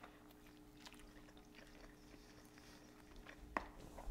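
A person faintly chewing a mouthful of soft-tortilla breakfast taco, with small wet mouth clicks and one sharper click about three and a half seconds in. A steady faint hum runs underneath.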